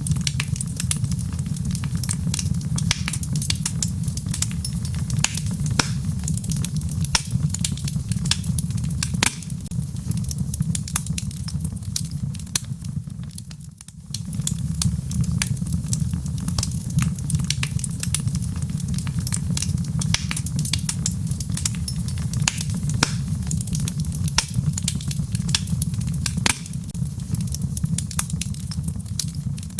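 Wood logs burning in a fireplace: a steady low rumble of the fire with frequent sharp crackles and pops, dipping briefly about halfway through.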